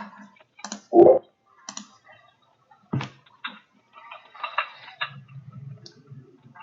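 Scattered clicks and taps of a computer keyboard and mouse, with one louder knock about a second in and a quick run of taps a little past the middle.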